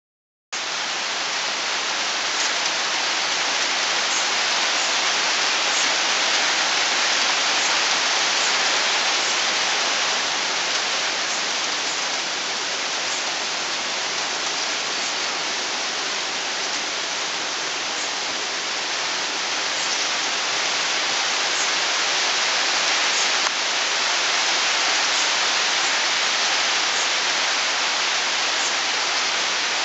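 Steady rain falling, an even hiss that starts about half a second in.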